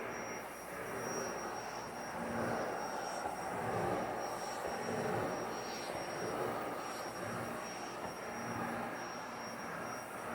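Vacuum cleaner running: a steady rushing of motor and suction with a thin high whine, getting louder and softer every second or so.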